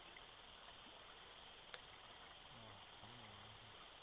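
Insects chirring steadily at a high pitch, with one faint click about halfway through and a faint low wavering sound near the end.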